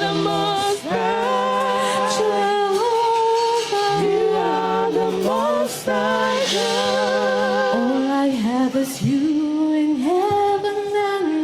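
Worship singing: a lead voice and congregation holding long sung notes, with vibrato.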